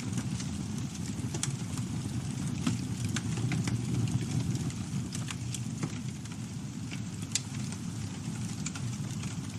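Campfire burning: a steady low rumble of flames with frequent irregular crackles and pops from the burning wood, one louder pop about seven seconds in.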